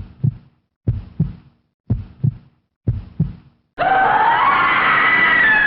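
Heartbeat sound effect: four lub-dub double thumps about a second apart. Then, nearly four seconds in, a loud sustained eerie tone swells in, its pitch rising and then sliding down.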